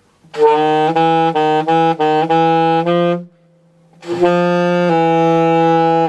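Alto saxophone playing a phrase: a quick run of about six short, separately tongued notes, a short pause, then longer held notes.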